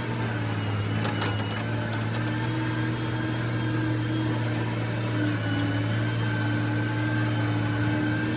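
Heavy earthmoving machine's diesel engine running steadily with a constant low drone.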